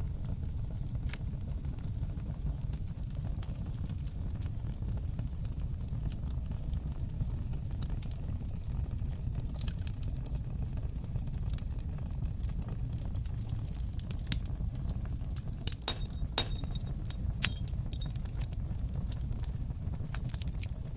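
Wood fire crackling in a fireplace: a steady low rumble with many small, sharp pops scattered throughout, and a brief run of louder pops about three-quarters of the way in.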